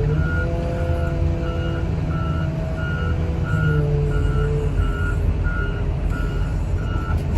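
Backup alarm on heavy equipment beeping in a steady, rapid run of short, evenly spaced beeps, over the machine's diesel engine running with its pitch drifting up and down as the machine works.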